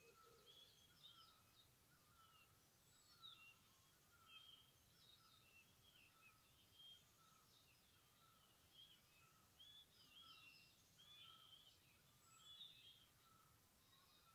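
Faint forest birdsong. A short note repeats evenly about every three-quarters of a second, while other birds give scattered, higher, varied chirps over a low, steady background hum.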